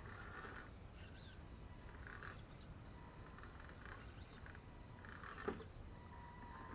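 Faint outdoor birdsong: short, scattered chirps. A single sharp click comes about five and a half seconds in.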